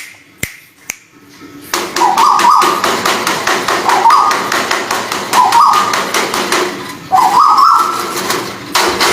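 White-billed tuwu bird calling: three long bursts of rapid ticking notes over a wavering whistled tone, about two and a half seconds apart. The first burst starts near two seconds in.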